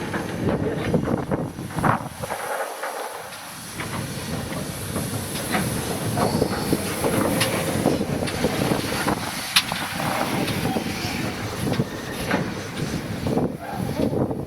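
Steam-hauled heritage train on the move: a steady rumble of the wheels and carriages, with many sharp, irregular clicks and clanks from the track.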